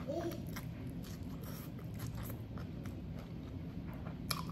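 Close-up chewing of a soft sandwich with a shredded oyster-mushroom filling: wet mouth clicks and smacks throughout, a brief hummed 'mm' at the very start, and one sharper click near the end.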